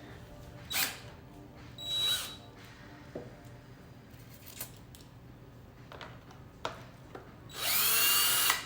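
A power drill-driver runs in a burst of about a second near the end, likely driving in a door-handle fastener, with a shorter burst about two seconds in. A few sharp clicks and knocks of tool handling come in between.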